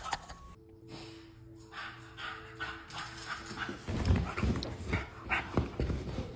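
A dog's sounds, with soft knocks and low thumps from about four seconds in.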